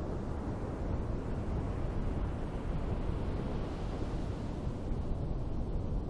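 Ocean surf washing onto a beach, a steady rush that swells about halfway through as a wave breaks, with wind rumbling on the microphone.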